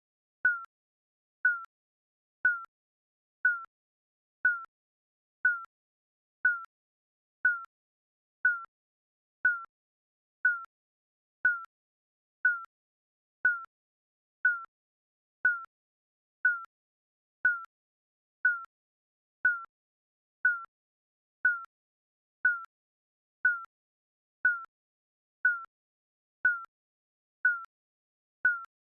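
Digital countdown timer beeping: a short, high electronic beep about once a second, each one slightly falling in pitch and dying away quickly.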